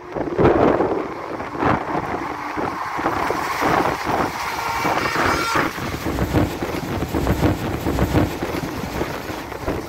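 Rushing wind and wheel-on-rail noise of an Indian express train running at about 110 km/h, heard from its open doorway, with wind buffeting the microphone and scattered clacks from the wheels. In the second half the noise deepens as a Vande Bharat Express train rushes past on the next track at about 120 km/h.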